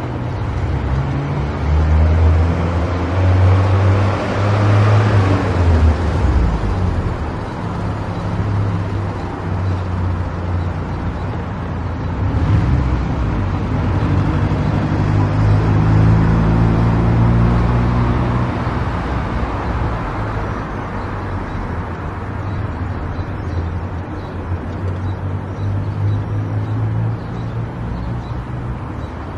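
Car engine and road noise while driving, the engine note shifting up and down in pitch several times, with a sudden change about twelve seconds in.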